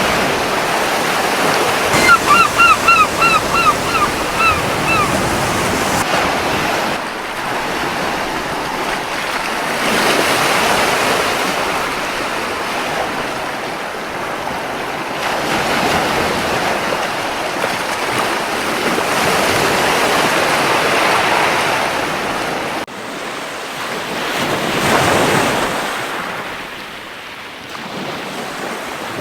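Sea waves washing onto a beach, surging and easing every few seconds. A couple of seconds in, a seagull calls a quick run of about eight short notes.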